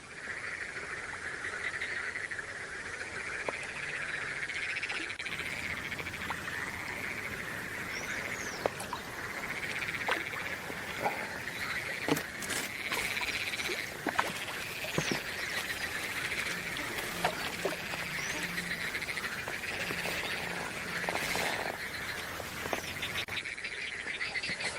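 A chorus of frogs calling without pause, a dense wavering trill, with a few short bird chirps and scattered sharp clicks over it.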